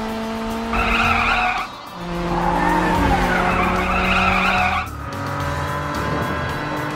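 Cartoon racing-car sound effects: a steady engine hum with screeching tyres, one short screech about a second in and a longer one through the middle.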